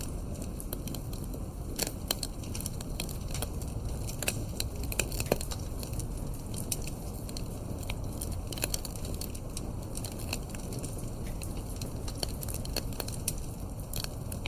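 Wood fire crackling in a fireplace: frequent sharp pops and snaps over a low steady rumble.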